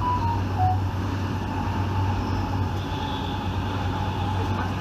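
A 1980s commuter train running along the track, heard from inside the carriage: a steady low rumble with a faint steady whine. A few short high notes sound right at the start.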